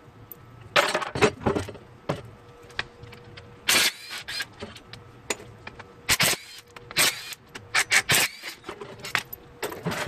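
Irregular metallic clanks and clinks of hand tools and engine parts being handled during an engine teardown, over a faint steady hum.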